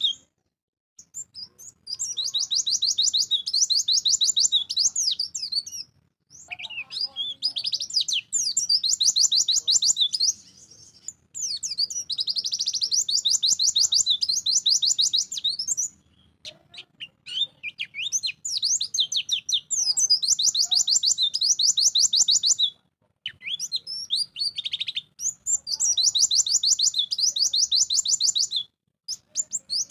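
White-eye (pleci) singing vigorously: long runs of fast, high-pitched twittering notes, repeated in about six song bouts separated by brief pauses.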